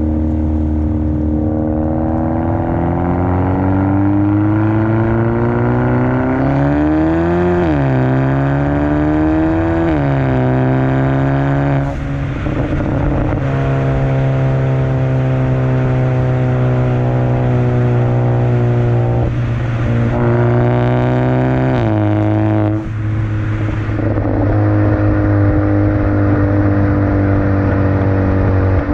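Exhaust note of a 2017 Hyundai Elantra Sport's 1.6-litre turbocharged four-cylinder, uncorked by a second-cat, resonator and muffler delete. It climbs in pitch under acceleration, drops sharply at two quick gear changes, then runs at a steady cruise before stepping lower at another shift.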